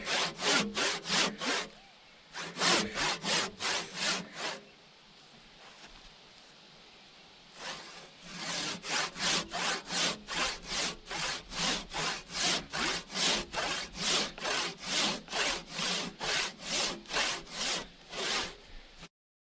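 Handsaw cutting through a log in steady back-and-forth strokes, about two to three a second. The strokes pause for about three seconds, then resume and stop abruptly near the end.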